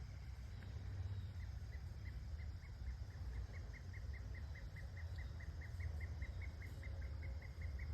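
Rural outdoor ambience: a steady low rumble, with a faint, even chirping of short high notes, about three or four a second, from about a second and a half in.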